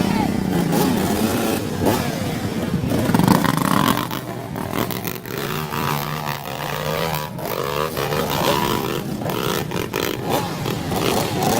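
Dirt bike engine running off-road, its pitch rising and falling as it is revved and eased off.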